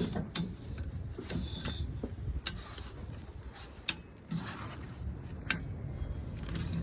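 A few separate sharp clicks and knocks over a low background rumble as the strap holding a stuck spare tire under a GM truck is worked loose.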